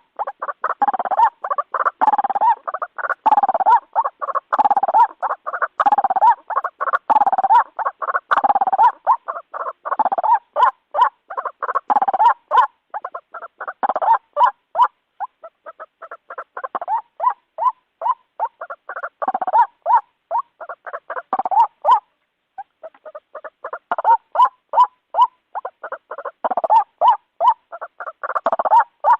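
White-breasted waterhen (ruak-ruak) calls played as a bird-lure recording: a long, rapid series of short, hoarse notes, several a second, with a short break about 22 seconds in.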